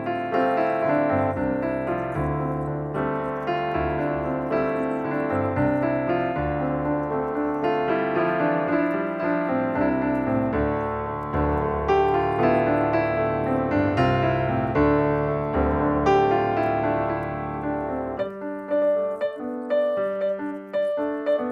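Background piano music, a flowing melody over steady chords; about 18 seconds in the low accompaniment drops out, leaving lighter, separate notes.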